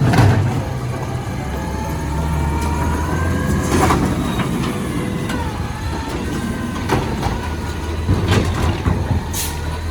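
Recycling truck's engine running steadily while its hydraulic grabber arm whines, rising and falling in pitch, with several clunks and knocks as the arm handles a bin.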